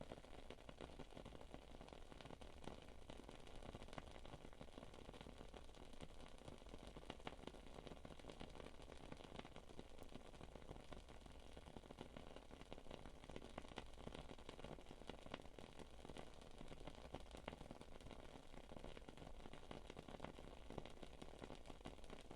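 Wood-wick candle crackling softly, with faint irregular ticks and pops over a quiet hiss.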